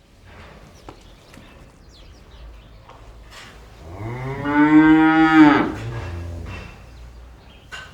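A cow mooing once, a single long call of about two seconds starting about halfway in, over faint outdoor background noise.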